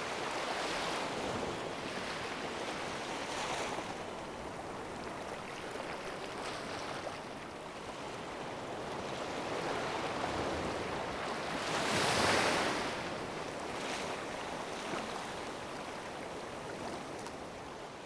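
Sea waves washing in, swelling and easing every few seconds, with one loudest surge about twelve seconds in.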